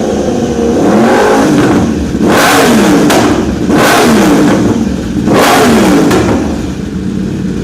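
2015 Yamaha R1's inline-four engine through an Akrapovic decat link pipe and slip-on exhaust, revved about four times, the pitch rising sharply and falling back after each blip, then dropping back to idle near the end. Really deafening: far too loud for a UK track day.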